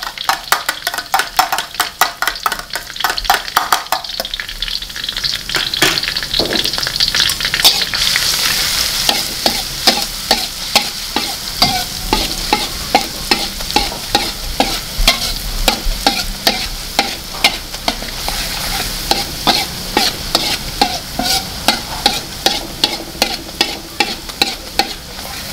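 Minced garlic and shallots sizzling in hot oil in a black wok, stirred with a metal wok spatula that scrapes and clicks against the pan in quick, repeated strokes.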